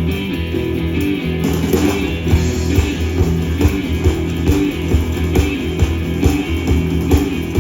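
Live blues band playing a guitar-led instrumental intro over a steady beat.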